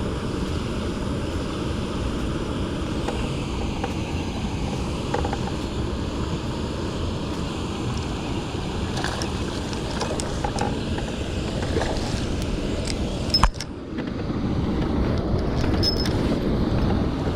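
Steady wind buffeting the microphone with water noise, as from a small boat under way. There is a sharp knock about thirteen seconds in, after which the rush is slightly louder.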